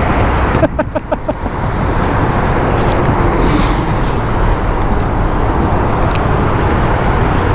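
Wind buffeting the microphone: a loud, steady rushing rumble, heaviest in the low end, with a brief voice cry about a second in.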